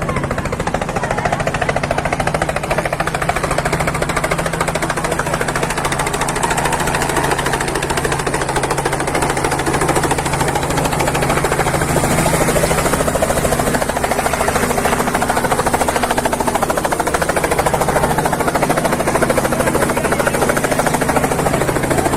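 Helicopter running close by: a steady, fast chop of the rotor blades over a low, even engine drone.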